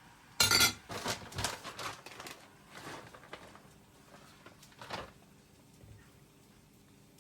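Dishes and cutlery clattering and clinking: one loud clatter about half a second in, then a run of lighter clinks and knocks, and a last one near five seconds.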